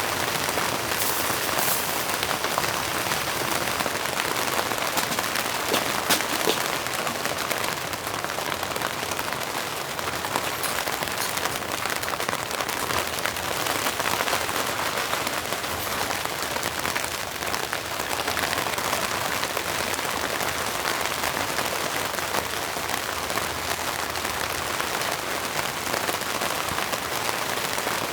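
Steady rain falling, an even hiss with a few sharper drop hits about a second in and around six seconds in.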